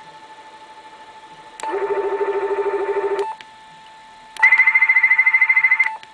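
Radio receiver playing the test signal from an Si5351A-based signal generator: a steady whistle, joined about one and a half seconds in by a low warbling tone for about a second and a half. After a short pause comes a louder, higher warbling tone of the same length.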